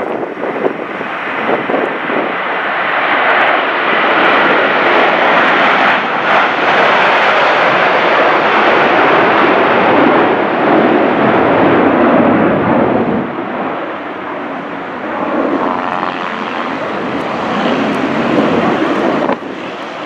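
Boeing 757-200 jet engines at high power, a loud roar that builds over the first few seconds, holds, then eases off after about 13 s as the jet moves away. The level drops suddenly near the end.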